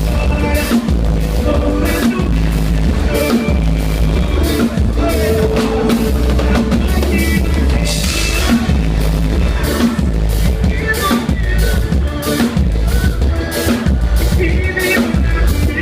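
A band playing an instrumental passage: a drum kit keeping a steady beat of kick and snare over a deep bass line and melodic instrument lines, with a cymbal swell about eight seconds in.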